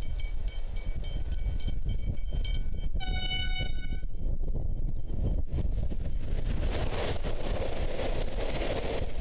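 A V/Line VLocity diesel railcar sounds its horn once for about a second as it nears the level crossing, then passes close by with rising wheel-and-rail noise. Wind rumbles on the microphone throughout, and a faint broken tone is heard before the horn.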